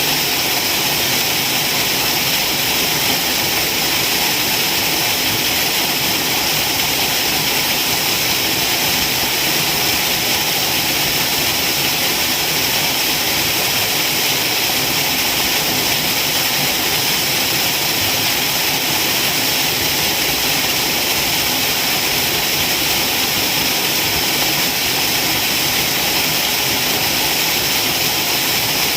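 Waterfall: water falling and splashing in a steady, loud rush of noise, unchanging throughout.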